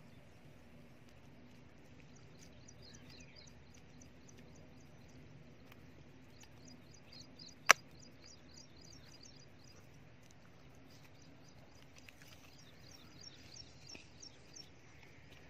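A small bird chirping, quick high chirps several a second in two long runs, over a faint outdoor background. A single sharp click, the loudest sound, comes about eight seconds in.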